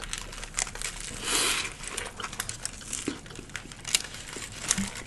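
Crinkling and rustling of a sandwich's paper wrapper, with scattered sharp clicks and a longer rustle about a second and a half in.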